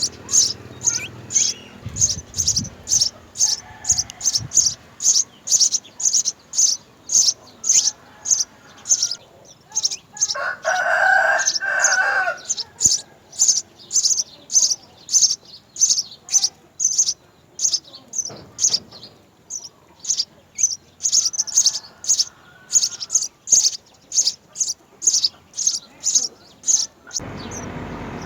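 House sparrows chirping at the nest, short high chirps repeating evenly about twice a second. About ten seconds in, a louder, lower call lasts about two seconds, and a steady hiss comes in near the end.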